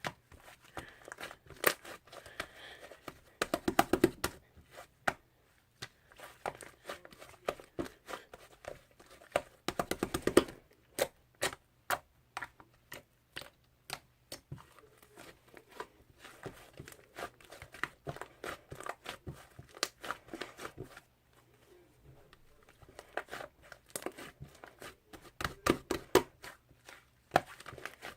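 Fluffy clay slime squished and stretched by hand, giving irregular runs of small sticky clicks and crackles with short pauses between.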